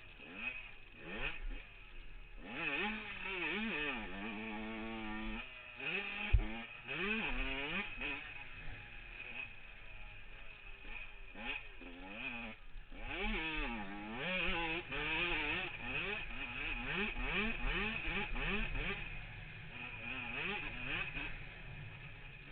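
Yamaha YZ125 two-stroke motocross bike being ridden hard, its engine revving up and down over and over as the throttle opens and closes. A single sharp knock about six seconds in.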